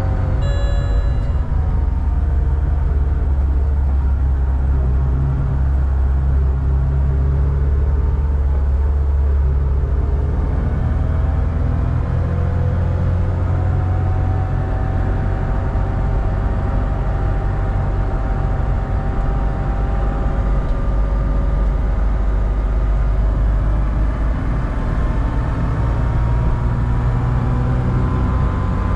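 BMW 325 Cup race car running, heard from inside the cabin: a heavy steady low rumble with engine tones that drift slowly up and down in pitch, rising gently through the second half.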